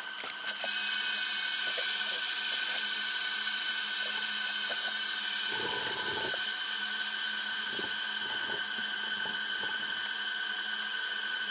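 A steady, high-pitched drone of several held pitches, growing louder about half a second in, with a few soft low knocks around the middle.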